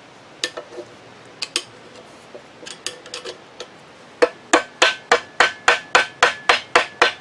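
Light scattered clicks of handled metal parts, then, about four seconds in, a hammer starts striking metal in a steady run of about three or four blows a second, each with a short ring: tapping to drive a part keyed to the drill grinder's motor shaft off the shaft.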